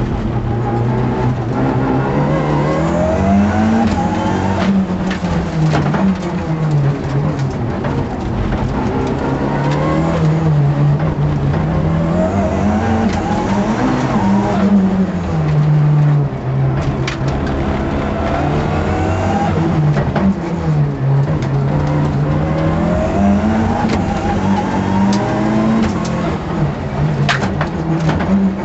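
Car engine heard from inside the cabin while being driven hard on a circuit, its revs climbing and dropping again and again through gear changes and corners.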